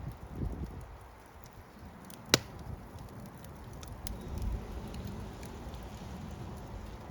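A fire crackling, with scattered small snaps over a low rumble and one sharp, loud pop about two seconds in.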